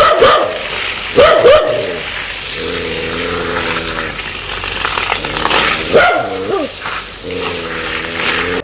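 A dog barking in sharp clusters near the start and again about six seconds in, with long, steady, low growls between the barks: a dog warning that it is ready to bite.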